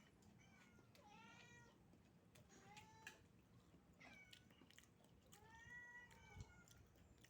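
A hungry house cat meowing four times, begging for food. Each meow rises and falls in pitch, and the last is the longest. The calls are faint.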